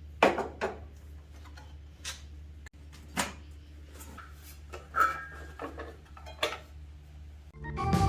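Scattered metallic clinks and knocks of hand tools and parts, over a low steady hum. Organ music comes in near the end.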